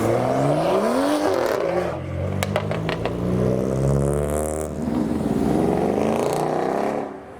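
A modified car's engine revving as it pulls away, its pitch rising and falling and rising again. A few sharp cracks come about two and a half seconds in.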